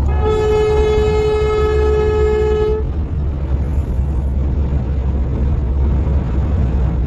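A vehicle horn sounds once, a single steady tone held for about two and a half seconds, over a continuous low rumble of a vehicle driving.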